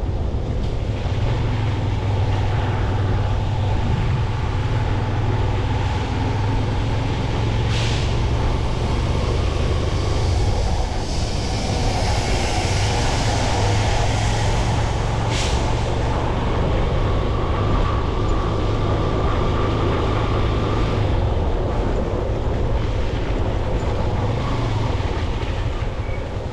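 Motorcycle riding in city traffic: a steady low rumble of engine and wind on the rider's microphone, with two brief sharp sounds, one about a third of the way in and one a little past halfway.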